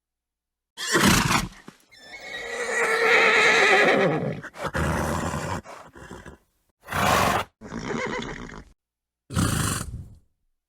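Horses neighing and snorting in a string of short spliced recordings, with dead silence between them. One long, wavering whinny comes about two seconds in, and several short, sharp snorts follow.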